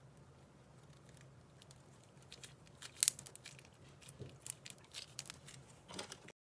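Slime being squished and worked by hand, giving a run of crackling clicks and pops that starts about halfway through, with the loudest pop about three seconds in. The sound cuts off abruptly near the end.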